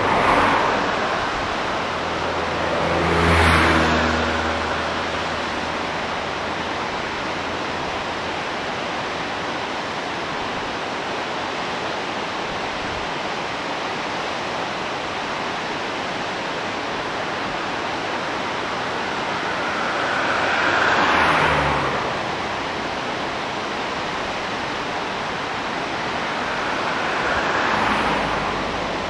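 Distant diesel-hauled trolley train crossing a steel trestle bridge: a low engine drone early on over a steady rushing noise that swells three times.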